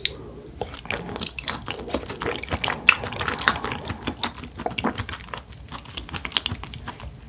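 Close-miked chewing of blackthroat seaperch (금태), a dense run of small clicks and mouth smacks.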